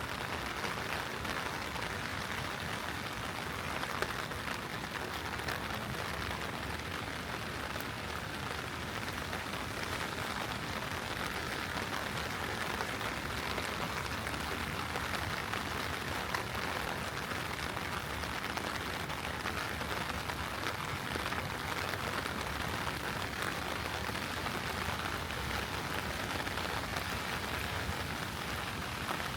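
Heavy rain falling steadily: a dense, even hiss of drops striking hard surfaces, with the odd louder drop standing out.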